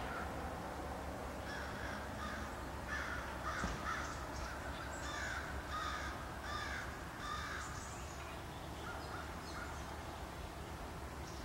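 A bird calling over and over in a run of short calls, most of them in the first two-thirds and thinning out near the end, over a steady low hum.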